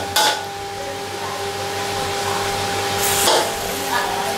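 Beef frying in curry paste in an aluminium wok: a steady sizzling hiss, with a metal spatula scraping the wok twice, just after the start and about three seconds in. A steady hum runs underneath.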